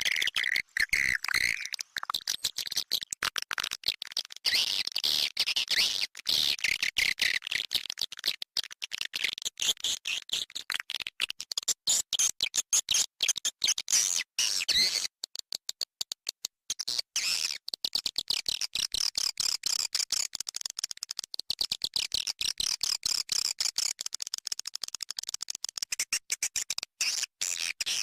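Swiftlet calling sound (SP walet), the lure recording played to draw swiftlets to a nesting house. It is a dense, rapid run of high chirps and clicking twitters from many swiftlets, pausing briefly once or twice.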